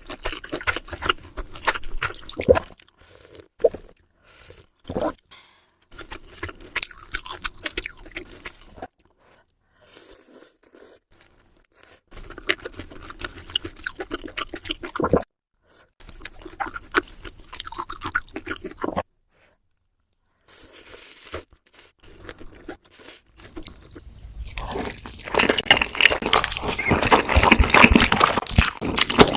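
Close-miked eating: crunchy chewing and biting in quick irregular bursts, cut off abruptly several times, with a louder, denser stretch of eating noise near the end.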